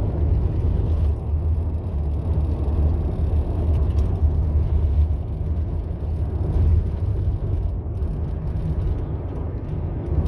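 Steady low rumble of a moving car heard from inside the cabin: road and engine noise with no speech.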